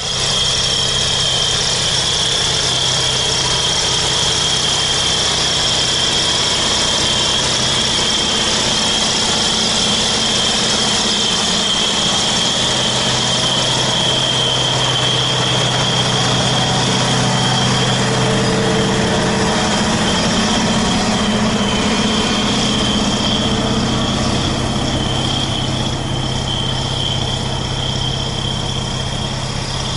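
Heavy wheeled farm tractor's diesel engine running steadily, with a steady high-pitched whine over it.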